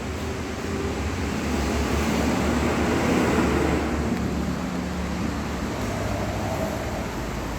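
Kawasaki superbike engine running, with a steady low note that swells louder for a couple of seconds near the start and then settles back.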